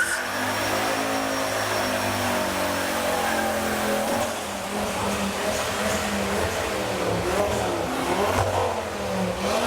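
Ford Focus ST's engine running and being revved, its pitch rising and falling.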